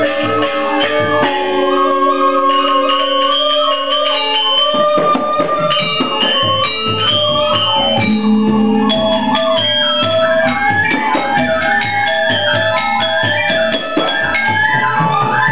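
Balinese gamelan orchestra playing dance music: many ringing bronze tones in quick, changing patterns over a pulsing low beat that comes in about five seconds in.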